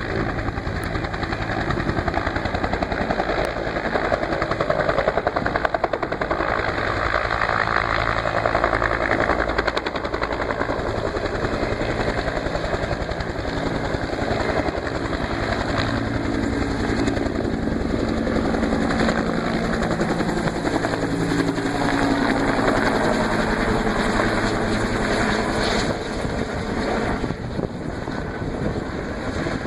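Firefighting helicopter's rotor and engine running steadily with a rapid, even chop. It gets a little quieter near the end.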